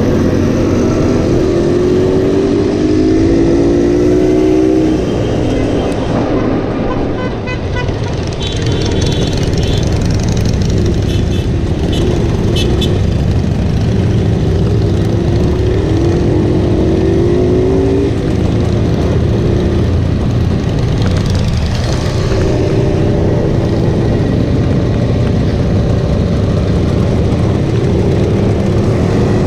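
Classic motorcycle engines running on the move, a steady rumble whose pitch rises several times as the bikes accelerate. A few short high beeps, like horn toots, sound about a third of the way in.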